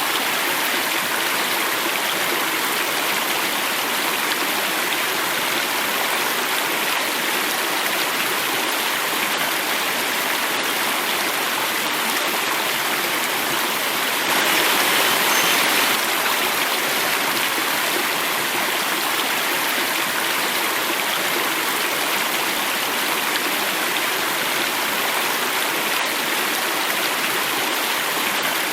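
Running water flowing and falling in a steady rushing stream. It swells a little louder for a couple of seconds about halfway through.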